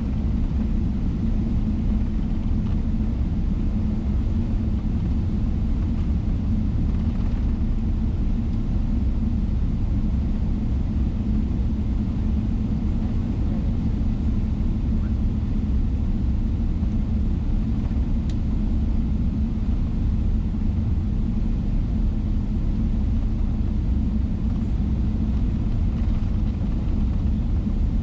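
Steady low rumble inside the cabin of a Boeing 777-300ER on the ground before takeoff, from its GE90 engines and cabin air, even and unchanging throughout.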